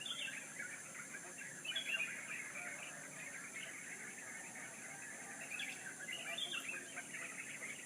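Many small birds chirping and chattering at once in a dense run of short overlapping calls, with a steady high-pitched hiss behind them.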